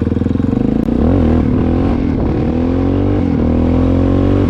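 Honda XR650L's air-cooled single-cylinder four-stroke engine accelerating hard, its pitch climbing steadily. There is a brief cut in the engine note about a second in and another short break near three seconds, like gear changes.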